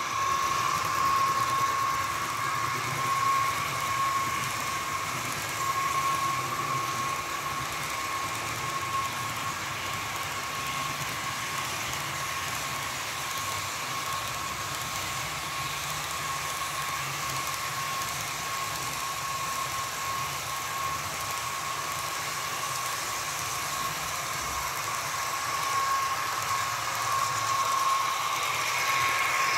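HO scale model train running, its small electric motor making a steady high whine over a light rolling hiss. It is louder near the start and again near the end, as the train comes closer.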